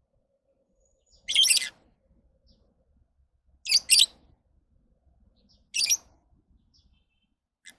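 Lovebirds giving short, high-pitched chirps: three loud calls about two seconds apart, the second a quick double, then a faint one near the end.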